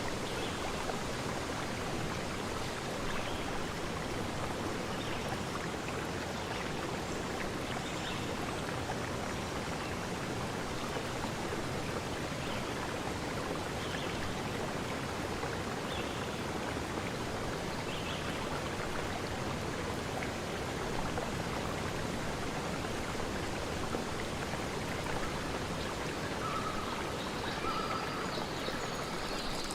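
Steady rushing water of a flowing stream, with faint short high chirps about every two seconds.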